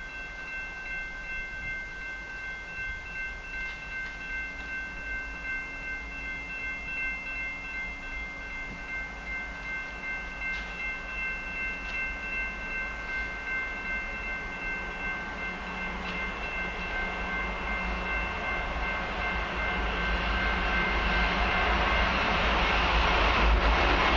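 A diesel-hauled CN freight train approaching, its low rumble and wheel noise building steadily louder as the lead locomotives draw near. For the first two-thirds a steady high-pitched ringing tone sounds over it, then fades out.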